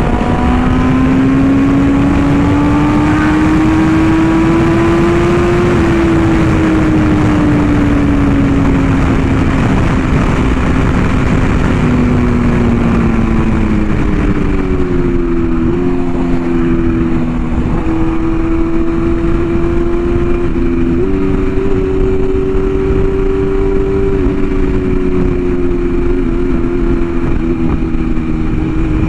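Inline-four sport bike engine running at fairly steady cruising revs, its pitch drifting slowly up and down and stepping to new levels a few times in the second half.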